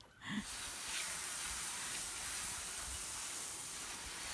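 A steady hiss that starts abruptly about a quarter-second in and cuts off near the end, with no pitch to it.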